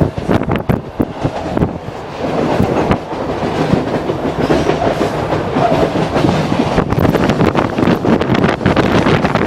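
Vale's Vitória–Minas (EFVM) passenger train passing close by. Its cars rumble steadily and its wheels knock repeatedly over the rail joints.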